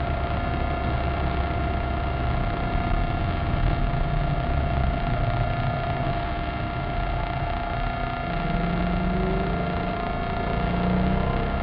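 Maserati Cambiocorsa's V8 engine and road noise heard from inside the cabin while lapping a race track, the engine pitch climbing in the last few seconds as the car accelerates.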